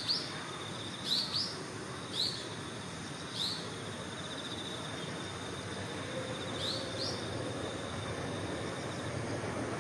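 Common kingfisher giving short, sharp high calls, about seven in all, some in quick pairs. They sound over a steady, pulsing high insect trill and a low background rumble.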